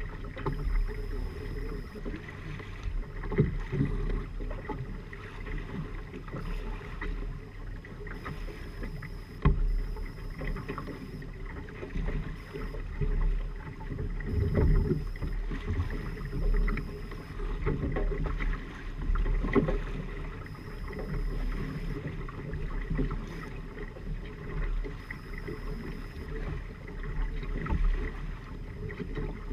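Water rushing along the hulls of a Firefly 26 trimaran under sail, with wind noise and a few sharp knocks, about one every five seconds, heard above a steady low rumble.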